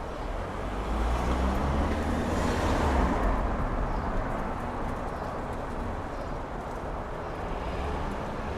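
Strong wind gusting, with a low rumble of wind buffeting the microphone. A gust swells about a second in, peaks around three seconds, then eases off.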